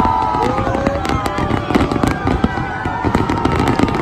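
Fireworks going off: dense crackling and popping over a steady low rumble, with several whistling fireworks gliding in pitch at once.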